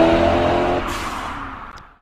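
BMW M5 E39's 4.9-litre S62 V8 through a Magnaflow aftermarket exhaust, accelerating with a steadily rising note. A little under a second in the note breaks off with a brief rush of hiss, and the sound fades away.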